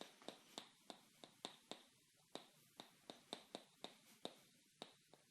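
Near silence with faint, short clicks repeating about three or four times a second at a slightly uneven pace.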